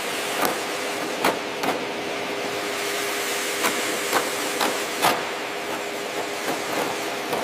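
A steady hiss with about nine sharp knocks or clicks at uneven intervals, like tools on metal.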